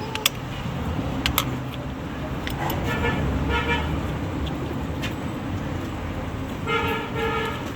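Vehicle horn giving two short double toots, about three seconds in and again near the end, over a steady low rumble, with a few sharp clicks in the first second and a half.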